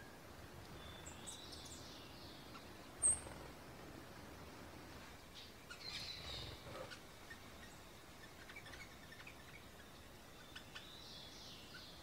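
Small songbirds calling: scattered short, high chirps and chips, with one sharp, high chip about three seconds in and a cluster of calls around six seconds, over a faint steady background hiss.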